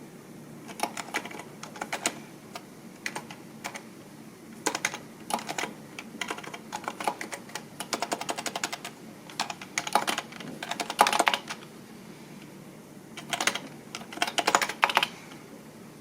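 Typing on a computer keyboard: bursts of rapid keystroke clicks broken by short pauses, with the busiest runs about two-thirds of the way in and near the end.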